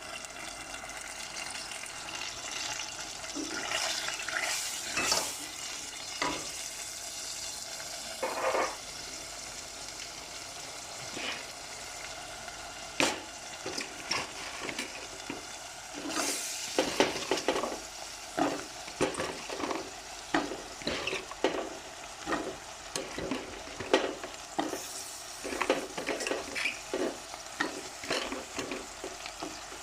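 Vegetables sizzling in oil in a pan while a utensil stirs them, knocking and scraping against the pan. The stirring strokes are sparse at first, then come steadily, about one or two a second, from about halfway through.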